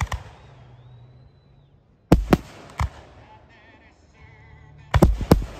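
Aerial fireworks bursting with loud, sharp reports in clusters: one right at the start, two or three more about two seconds in, and a quick pair about five seconds in.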